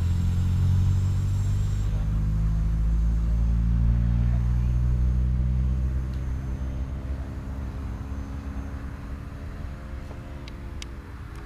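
Canary 40 radio-controlled model airplane's engine droning steadily during a low pass, loud at first and fading over the second half as the plane flies off.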